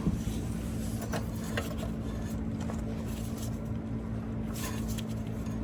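Steady low mechanical hum with a constant tone, and a few faint clicks of metal parts being handled.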